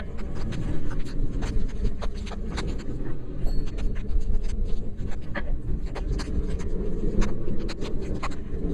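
Light rain ticking irregularly on a rain cover over the microphone, many small sharp taps over a steady low rumble of movement.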